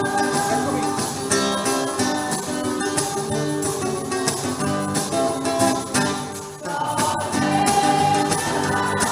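Choir singing a gospel-style hymn with instrumental accompaniment, a tambourine and plucked strings among the instruments.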